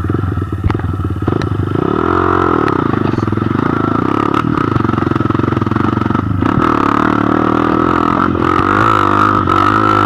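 Dirt bike engine revving up and falling back about two seconds in as the bike moves off, then running steadily along a rough dirt trail, with scattered knocks and rattles from the bike over bumps.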